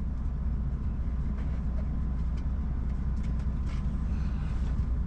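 Articulated lorry's diesel engine idling steadily, a low rumble heard from inside the cab, with a few faint clicks over it.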